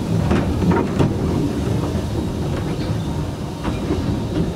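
Narrow-gauge railway coach rolling along the track: a steady low rumble of the wheels, with occasional sharp clacks as they pass over rail joints and points.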